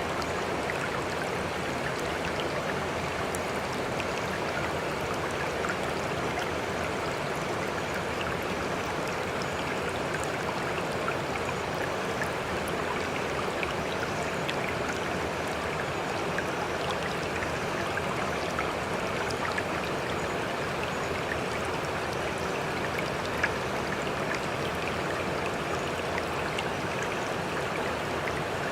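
Sea water rushing and lapping steadily, an even rush with no rise and fall of waves, dotted with faint scattered ticks.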